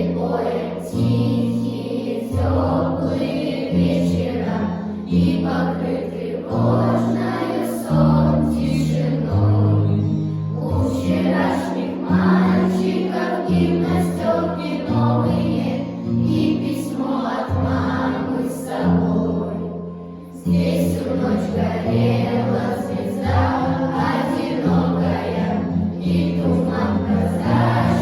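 A choir of voices singing a song over an instrumental backing track with a steady bass line, breaking off briefly about twenty seconds in before the next phrase.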